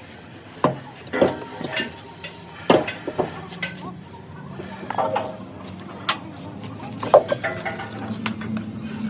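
Irregular metallic clinks and clanks of steel tools and parts being handled, about a dozen sharp knocks with a short ring, over a low steady hum.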